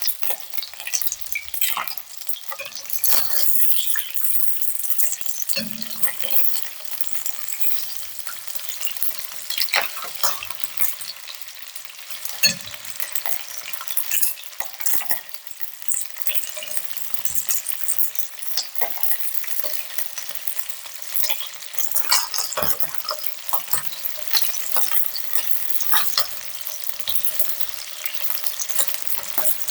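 Chicken wings sizzling and crackling in a hot pan, with scattered clicks and taps from a utensil stirring or turning them.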